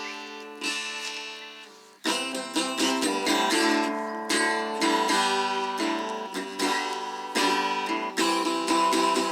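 Music on a plucked string instrument: chords struck about once or twice a second, each ringing out and fading, with no singing.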